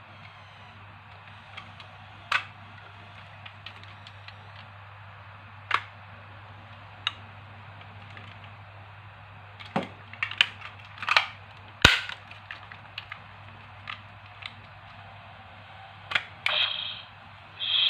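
Hard plastic toy being handled: scattered sharp clicks and knocks, a few single ones, then a quick cluster of several about two thirds of the way in.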